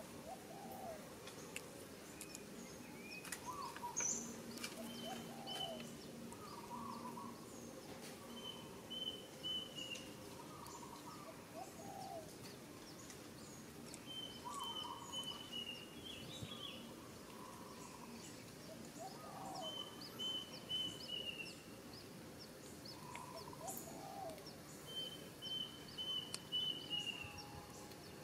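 Birds calling over steady outdoor background noise: a short, high run of notes falling slightly in pitch, repeated about every five to six seconds, with lower calls in between.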